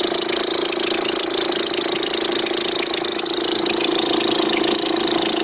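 Car engine idling steadily, with a constant hum and hiss from the alternator's freewheel pulley, which the owner suspects is worn out.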